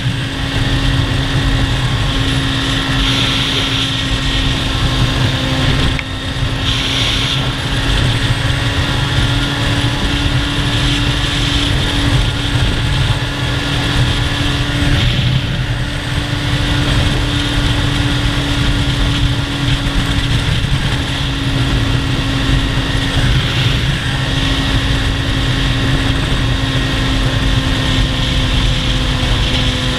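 Motorcycle engine running at a steady pitch while riding, under a constant rush of wind noise; the engine note dips briefly a few times.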